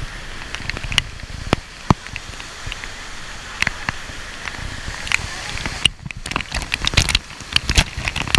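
Steady rush of waterfall water with frequent sharp clicks and knocks, thickest about six to eight seconds in.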